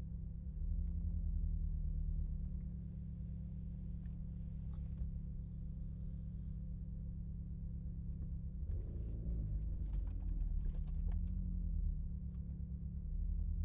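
Renault Megane RS Trophy's turbocharged four-cylinder engine running at low revs while driving, a steady low drone that gets louder about half a second in and shifts in pitch with the throttle. A scatter of light clicks comes around ten seconds in.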